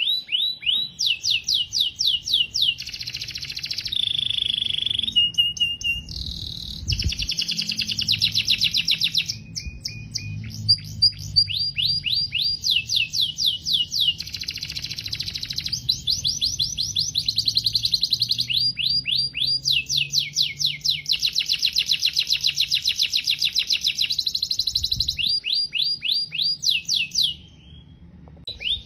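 Domestic canary singing: long runs of fast, repeated falling notes (rolls and trills) that change to a new phrase every few seconds, with a brief pause near the end.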